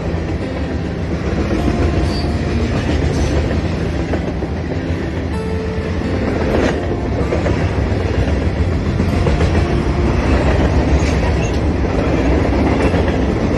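Freight train cars rolling past: a steady rumble of steel wheels on rail with clickety-clack over the rail joints, and one sharper knock a little past halfway.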